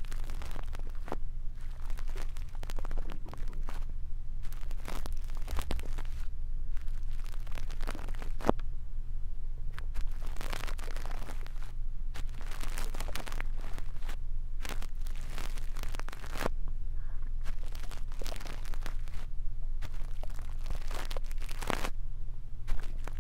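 Brush bristles rubbing and scratching against a microphone in ASMR ear-cleaning fashion: irregular crackly swishes and rustles over a steady low hum.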